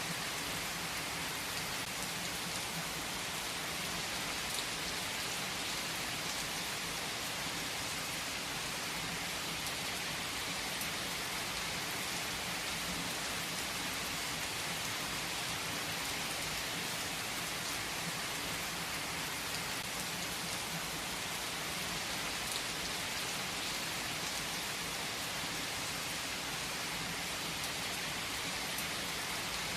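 Steady rain falling on surfaces: a dense, even hiss of countless drops that neither swells nor fades.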